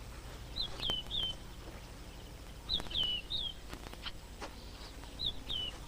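A bird calling in short, high chirps that slide downward, two or three at a time, in three groups about two seconds apart, over a steady low hum and a few faint clicks.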